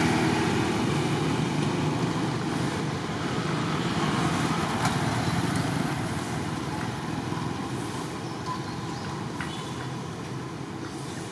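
Road traffic noise: a motor vehicle's engine and tyres passing and slowly fading away.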